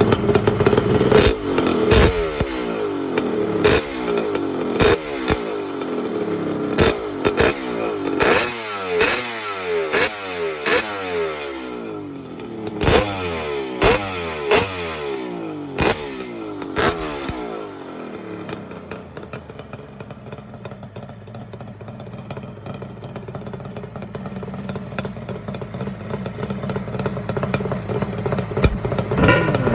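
Kawasaki 750SS H2's two-stroke triple engine, breathing through expansion chambers, blipped hard over and over with a sharp crack at about one blip a second, the pitch falling back after each one. It then settles into a steadier, quieter idle, and is revved again near the end.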